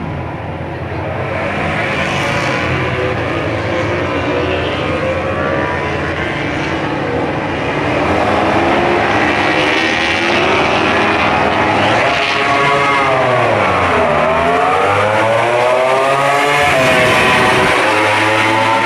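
Several MotoGP racing motorcycle engines at high revs, overlapping as more than one bike runs at once. About two-thirds of the way through one engine's pitch drops steeply, then climbs again through the gears as it accelerates away.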